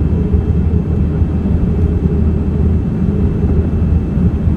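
Steady low rumble of cabin noise inside a Boeing 787 airliner on its approach to landing: engine and airflow noise heard through the cabin.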